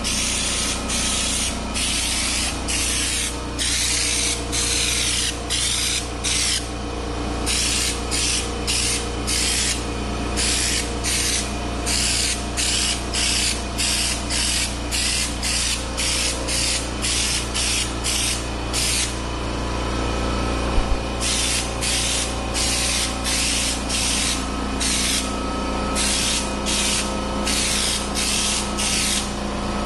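Air-powered Raptor liner spray gun, fed at about 55 psi, hissing as it sprays bedliner in short bursts of roughly two a second. There is a pause about seven seconds in and a longer one around twenty seconds in. A steady low hum runs underneath.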